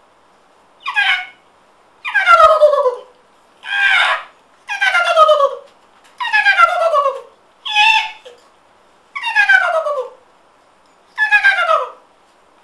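A person imitating a bird call: a series of about eight calls, each sliding down in pitch, repeated roughly once a second.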